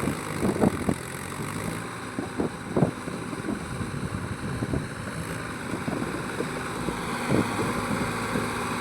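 Heavy diesel engine running steadily, with a few short knocks over it.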